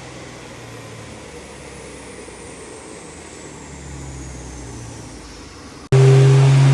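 A low steady hum with a faint high whine slowly falling in pitch, then about six seconds in a sudden jump to a heavily modified diesel pickup engine running loud and steady at high rpm on a chassis dyno.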